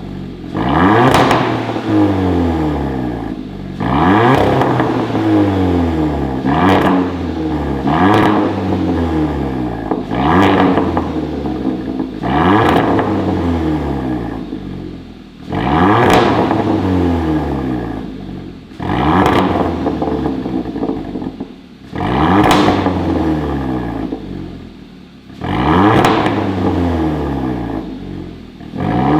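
Hyundai Veloster 1.6 turbo four-cylinder through an aftermarket mid-pipe and variable-valve end-muffler exhaust, revved about ten times in a row. Each rev climbs quickly and then falls back slowly toward idle.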